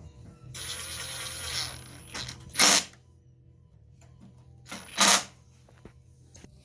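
Pressurised spray hissing while a small-engine carburetor is cleaned: a hiss of about a second and a half with a thin high whistle in it, then two short, loud blasts about two and a half seconds apart.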